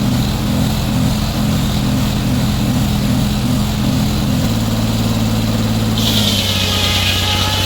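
Sawmill engine running steadily. Its note shifts about four and a half seconds in, and a high whine joins it about six seconds in.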